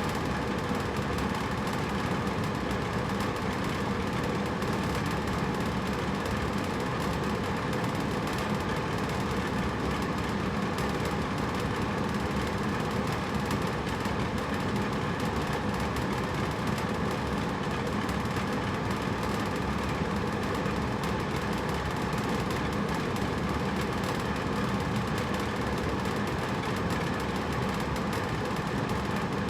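Hotel room air conditioner running steadily: an even rush of air with a constant low hum, unchanging throughout.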